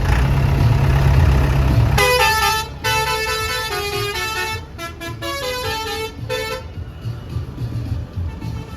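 Heavy tractor engine running with a deep rumble. About two seconds in, a loud tune of held, stepped notes plays for about four and a half seconds over the quieter engine, then stops.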